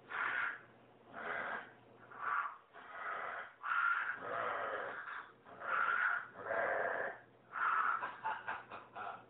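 Parrot making a string of about nine breathy, hissing vocal sounds, with a few quick clicks near the end.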